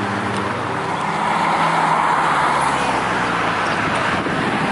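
A car driving past at low speed: its engine runs with a steady low drone over a broad rushing road noise that builds slightly.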